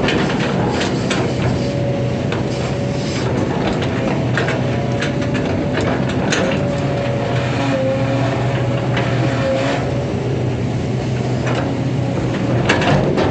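Long-arm hydraulic excavator at work: its diesel engine runs with a steady hum and a steady higher whine, with scattered knocks throughout.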